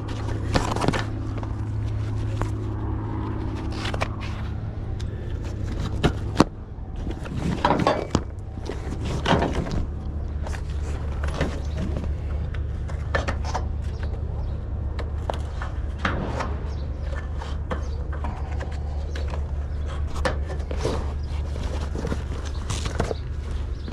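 Scattered clicks, clanks and knocks of bungee and shock-cord hooks being handled on a flatbed trailer, with footsteps, over a steady low hum. The sharpest knocks come about six and a half and eight seconds in.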